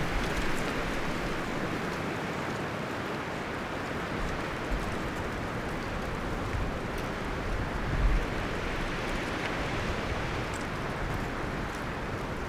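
Wind blowing through forest trees, a steady rustling of leaves and branches, with a low gust swelling briefly about eight seconds in.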